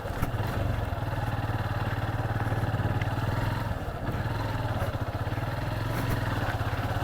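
Motorcycle engine running at a steady low speed while riding a rough dirt track, its firing pulses beating fast and even; the engine eases off briefly about four seconds in.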